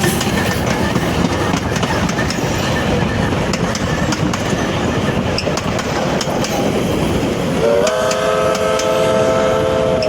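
A train running along the rails, a steady rumble with rapid clicking and clatter. About eight seconds in, a train whistle sounds one long, several-note chord and holds it to the end.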